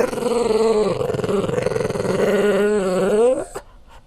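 French bulldog giving a long, rough, growling grumble that sounds like a motorcycle, rising in pitch toward the end and stopping about three and a half seconds in.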